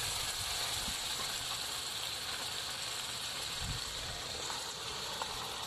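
Garlic, chillies and sauce sizzling steadily in a hot wok.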